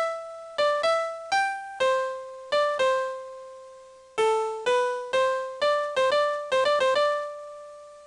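Train-approach melody for a station platform: a short single-line tune in a bell-like electric-piano tone, about sixteen notes, some quick runs near the end, the last note left ringing out and fading.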